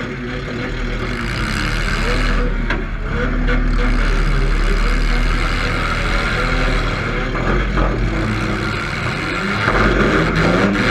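Demolition derby car engine running and revving up and down, with a couple of sharp knocks about three seconds in.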